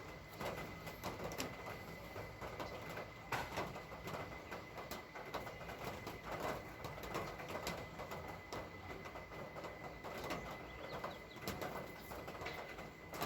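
Dove or pigeon cooing, repeated calls at roughly one-second spacing, with scattered sharp clicks and a faint steady high-pitched tone behind.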